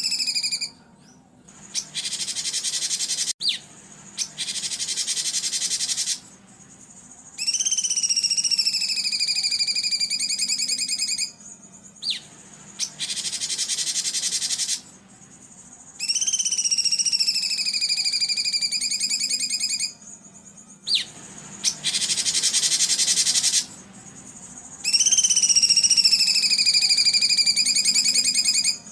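Songbird training recording of harsh 'rough shot' calls: long, slightly falling, wavering whistles alternating with dense, harsh buzzing rattles, the sequence repeating about every nine seconds.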